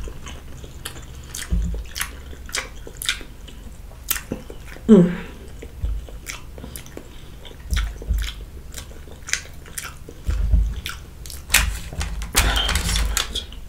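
A person chewing food close to the microphone: a run of small wet mouth clicks and smacks, with a short hum about five seconds in and a breathy sound near the end.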